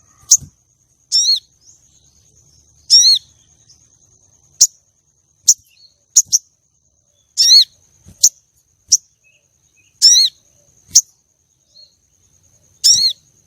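Female sogon bird calling repeatedly, a lure call for male sogon. It gives single sharp, quick downward-sweeping chirps alternating with short arched notes, about one call every second or two.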